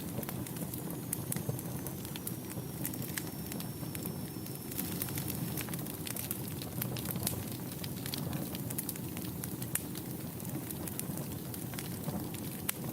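Fireplace fire crackling, with frequent sharp pops and snaps over a low steady rumble of flames. A faint, thin high whistle glides slightly down for a few seconds starting about a second in.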